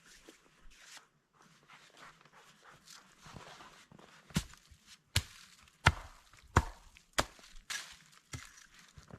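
Rustling, then a run of seven sharp, evenly spaced knocks, about three every two seconds.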